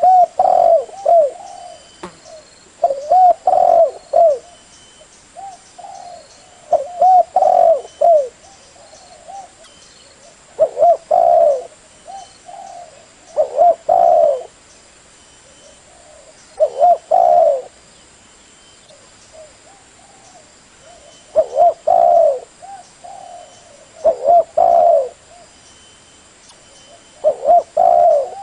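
Spotted dove cooing: short phrases of several low coos, repeated about every three to four seconds.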